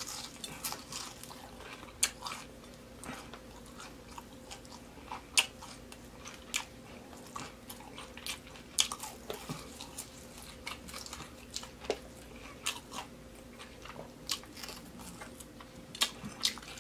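Crunching and chewing on crispy deep-fried baby back ribs: irregular crisp bites and mouth sounds.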